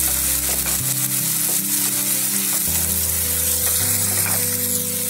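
Chopped onion and freshly added tomato sizzling in hot oil in a frying pan while a wooden spatula stirs them, with a few light scrapes of the spatula on the pan.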